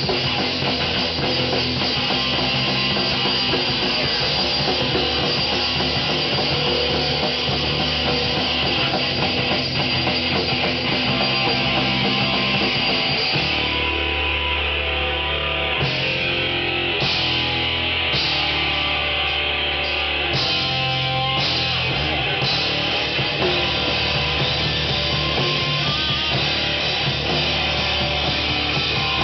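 Heavy rock band playing, with distorted electric guitars and a drum kit. About halfway through, the high end drops out in short steps for several seconds, then the full band returns.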